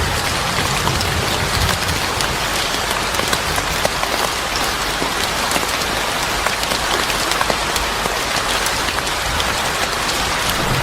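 Steady rain falling on a surface, a dense even hiss with scattered sharp ticks through it.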